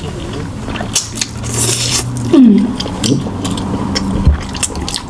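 Close-miked eating sounds: wet chewing and lip smacks with many small sharp clicks. About two and a half seconds in there is a short voiced hum that falls in pitch.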